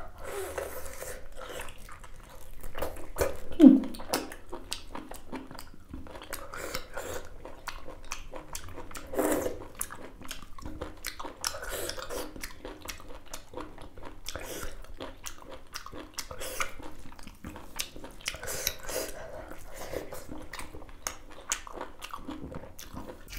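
Close-miked chewing and biting of cooked beef innards: an irregular stream of wet smacks and crunchy clicks, with a louder, low sound that drops in pitch about four seconds in.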